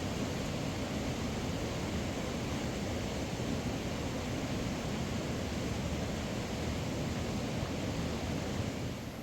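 Rushing mountain river: a steady, full rush of water, dropping a little just before the end.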